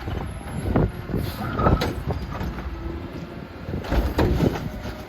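Strong wind buffeting the microphone in uneven gusts, with a garbage truck running underneath.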